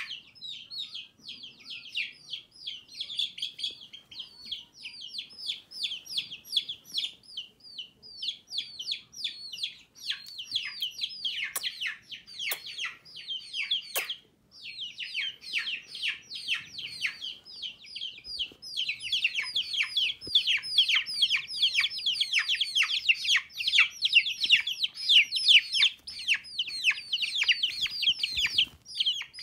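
Baby chicks peeping nonstop, a rapid stream of short, high, falling cheeps from several birds at once, growing louder in the second half. Two sharp clicks are heard around the middle.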